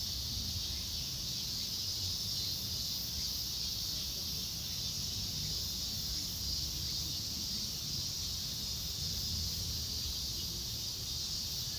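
Steady outdoor chorus of insects, a continuous high-pitched buzz, over a steady low rumble.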